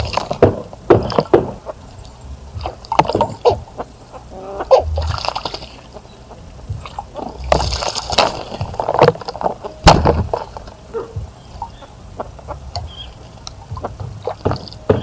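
Birds splashing in a bird bath, water sloshing in irregular bursts with sharp splashes, the loudest about ten seconds in.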